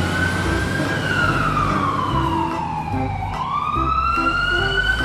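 A siren wailing: its pitch rises, falls slowly over about two seconds, then sweeps back up again. Background music with short low notes plays underneath.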